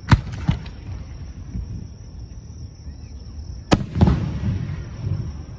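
Aerial fireworks bursting close overhead: two sharp bangs right at the start and two more about three and a half seconds in, each trailing off in a low rumble.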